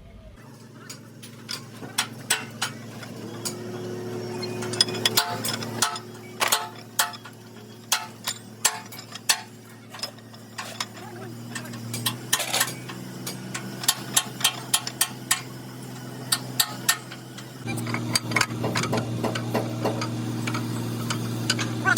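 Many irregular sharp taps and clinks of tools on metal, over a steady hum that shifts pitch a few times, at about 6, 12 and 18 seconds in.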